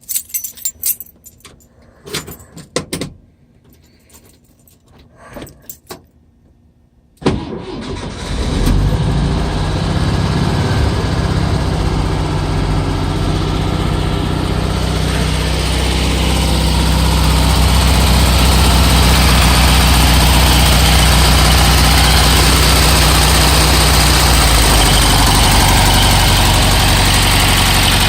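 1964 Volkswagen Beetle's original 1200cc air-cooled flat-four cold-started in freezing weather: a few clicks and rattles, then about seven seconds in the engine cranks briefly and catches straight away. It then runs steadily, a little louder through the middle and settling slightly lower near the end.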